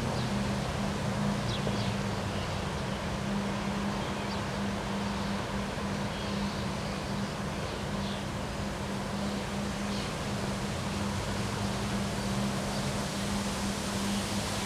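Steady wind with rustling, over a steady low hum, with a few faint short high chirps scattered through.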